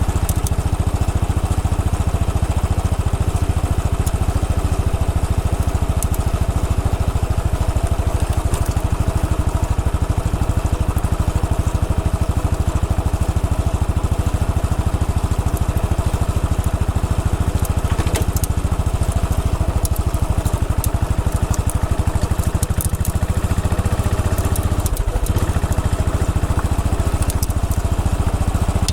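Royal Enfield Bullet 500's single-cylinder engine running steadily at low riding speed, with scattered clicks and crunches from the rough road surface under the tyres. The engine briefly eases off near the end.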